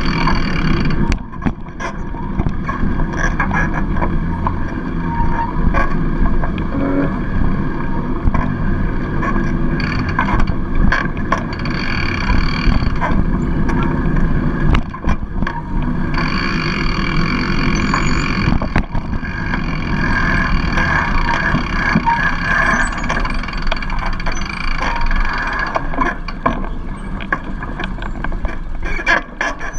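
Bicycle ride recorded on a GoPro: steady wind rush on the microphone and tyre noise on the road, with scattered clicks and rattles from the bike.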